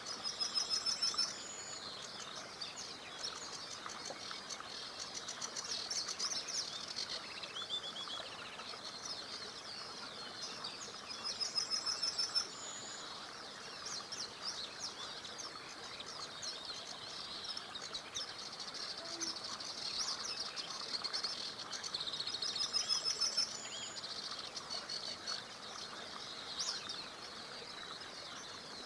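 A chorus of small songbirds chirping and singing. One bird repeats a loud, fast trilled phrase three times, about eleven seconds apart. Under it runs the faint steady rush of a river.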